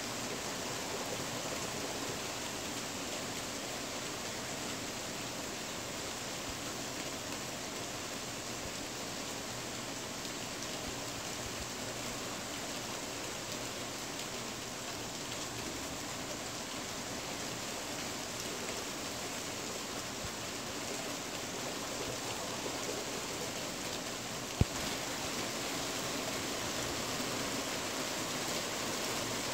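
Steady rain falling on a tin roof, an even hiss with no break. Near the end there is a single sharp knock.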